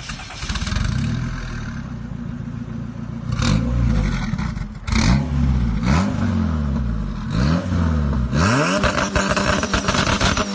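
Car engine running steadily, then revved in several quick blips, each rising and falling in pitch. From about eight seconds in, it runs louder with a rough hiss over it.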